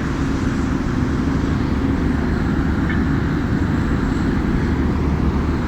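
Steady low rumbling background noise with no clear events in it.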